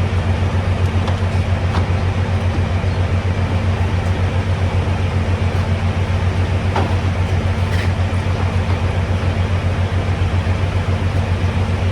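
Diesel engine idling steadily: a deep, finely pulsing hum.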